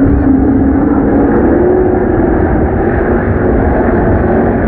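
A field of Bandolero race cars running together on the track, their engines droning loudly with the pitch climbing a little in the first couple of seconds and then holding steady.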